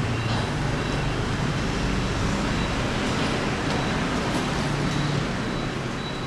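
Steady street traffic noise, with engines humming low.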